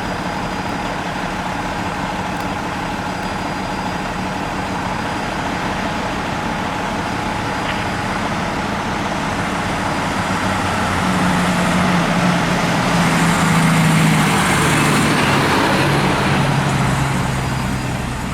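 Fire truck engine running, growing louder for a few seconds about two-thirds of the way through as the truck comes close, then easing off.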